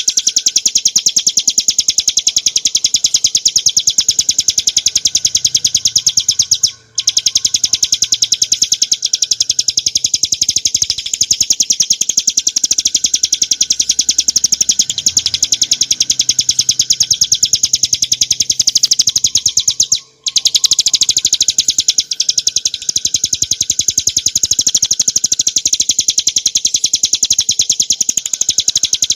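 Ciblek gunung prinia singing: a loud, very fast unbroken stream of high-pitched chirping notes, pausing briefly twice, about seven and twenty seconds in.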